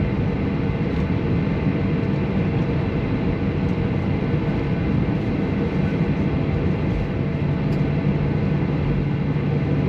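Steady engine hum inside a Boeing 737 cabin as the jet taxis to the gate, with a constant low drone and no change in pitch.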